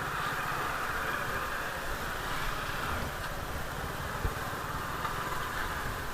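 Engine idling steadily, with a single short knock about four seconds in.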